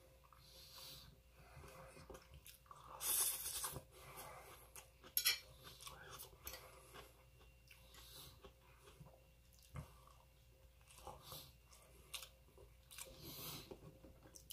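Close-up chewing of a person eating rice and shrimp-stuffed tofu off a plate with a fork. There is a louder crunchy stretch about three seconds in and a sharp click about five seconds in.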